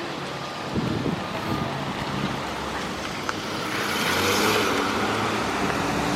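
Car engine running with road noise and wind buffeting the microphone, a little louder from about four seconds in.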